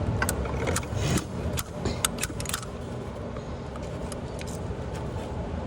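Sharp metallic clicks and scraping of hand tools and parts working at a fuel injector in an engine bay, over a steady low workshop hum. The clicks come in a cluster over the first couple of seconds, then only the hum and a few faint ticks remain.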